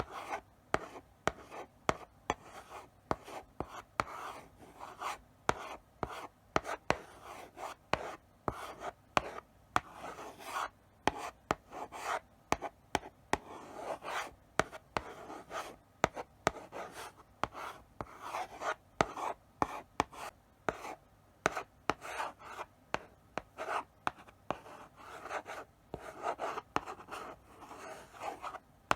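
Chalk writing slowly on a blackboard: a steady run of short scratching strokes broken by sharp taps as the chalk meets the board, several a second.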